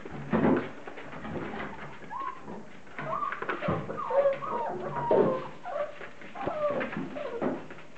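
A litter of briard puppies whining and whimpering together, with many short, overlapping high cries that rise and fall in pitch.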